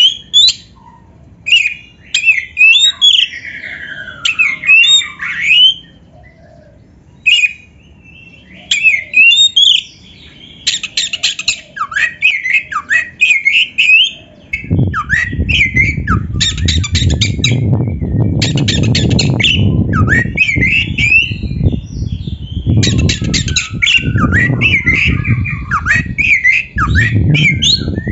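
Oriental magpie-robin (kacer) singing loud, varied phrases of whistled glides mixed with harsh, rapid chattering notes. A steady low noise runs under the song from about halfway through.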